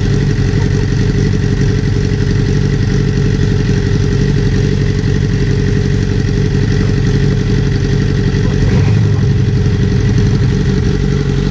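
Motorcycle engine idling steadily through a straight-piped exhaust with the slip-on muffler removed, swelling slightly about three-quarters of the way through.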